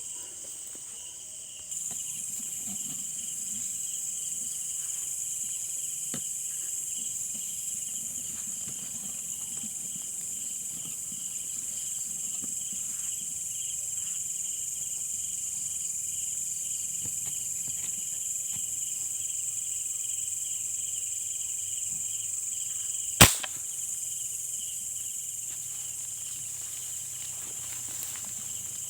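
Steady chorus of night insects, crickets, with a high continuous trill that grows louder about two seconds in. One sharp crack cuts through it about 23 seconds in.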